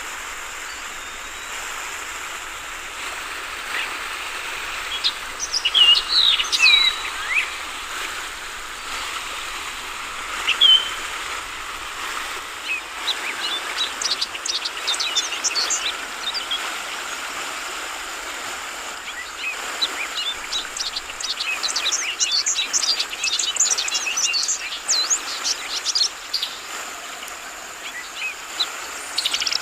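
Yellow-vented bulbuls (trucukan) calling in short chirps over steady trickling running water. The chirps come singly early on, then in dense runs of quick high notes around the middle and in the second half.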